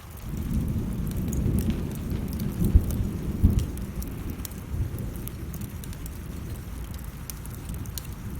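Thunder rumbling low, swelling about half a second in with two sharp cracks near the middle, then fading. Under it, a wood fire crackles with scattered pops and rain falls steadily.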